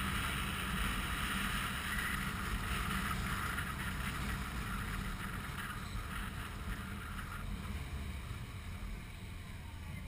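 Wind rushing over the microphone over the low, steady drone of a motorcycle riding at speed. The hiss eases off about three-quarters of the way through.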